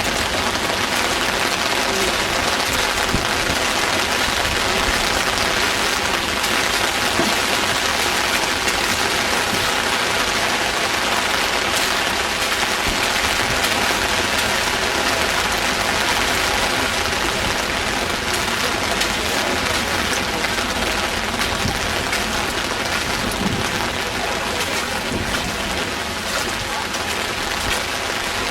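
Heavy rain falling steadily: a dense, even hiss peppered with many small drop impacts.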